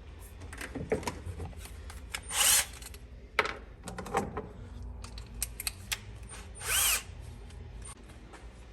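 Workshop tool sounds: scattered clicks and knocks with two short whirring bursts of a power tool, a little over 2 s in and near 7 s.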